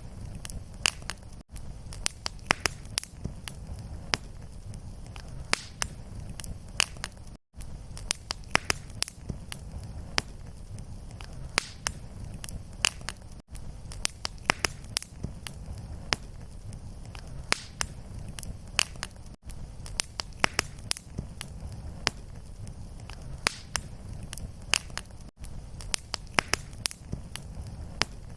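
Fireplace fire crackling, with many sharp pops and snaps over a low steady rumble. A very short gap in the sound comes about every six seconds, the seam of a looped fire recording.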